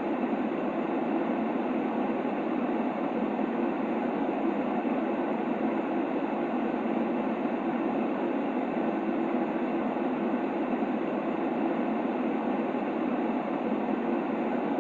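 Steady white noise played for a baby's sleep: an even, unchanging rushing hiss, fuller in the low-middle range than in the highs.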